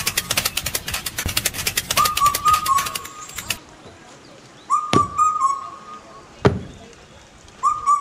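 A fast run of sharp clicks for the first three and a half seconds, then two single sharp knocks about a second and a half apart. A short whistled chirp, like a bird call, repeats about every three seconds.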